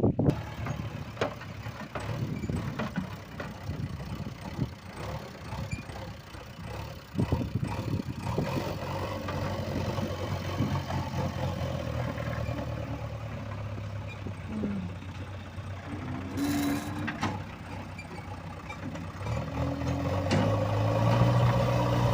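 A vehicle engine running, with irregular knocks and clatter through the first half. Later it gives a steadier low drone that grows louder near the end.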